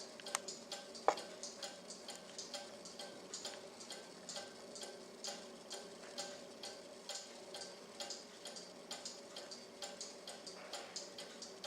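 Cuckoo clock movement ticking steadily, its escapement beating about three times a second, with one louder click about a second in.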